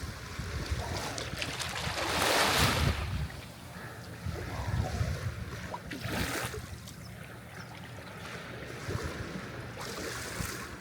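Sea waves breaking and washing up the shore in slow swells. The loudest wash comes about two seconds in and another around six seconds, over a steady low rumble of surf.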